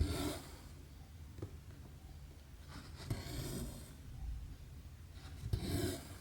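Needle and thread being drawn through cross-stitch fabric: three short, rasping pulls, one at the start, one about three seconds in and one near the end.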